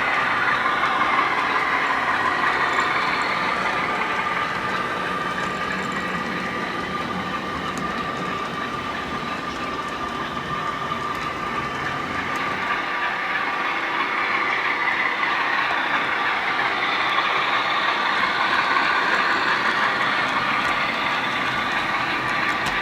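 HO scale model train running past on the layout, with a steady mechanical running sound. It is louder at first, fades somewhat in the middle, and swells again toward the end as the train passes.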